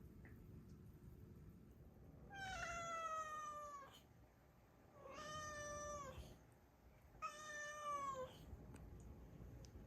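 A cat meowing three times: long drawn-out meows, each a second or more, each dipping in pitch at the end.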